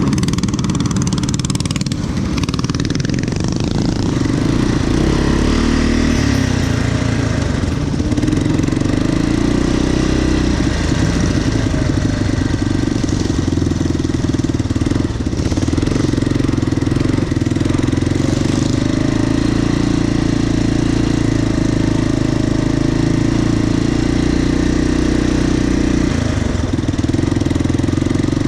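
A motorcycle engine running steadily, with a brief dip near the end.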